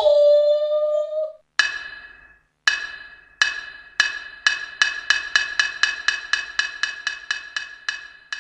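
Wood block struck over and over at one pitch, each strike ringing briefly. The strikes start about a second apart, speed up steadily to about four a second, then stop near the end.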